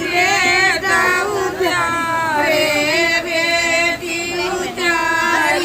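Background song: a high singing voice with vibrato over music with a steady low drone.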